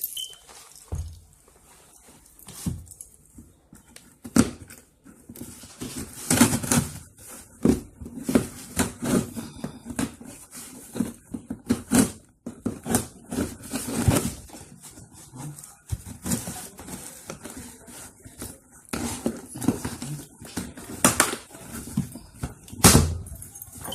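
A cardboard shipping box being opened by hand, with irregular rustling, scraping and handling knocks.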